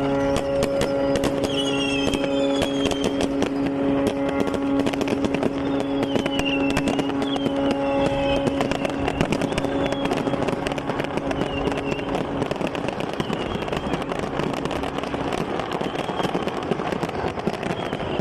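A ship's horn sounds one long, steady blast over rapid crackling bangs like firecrackers. The horn fades out about halfway through, leaving a rushing noise and continued crackling.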